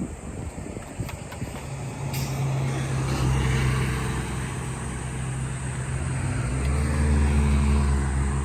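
Road vehicle engine running with a steady low hum, building from about two seconds in and loudest near the end.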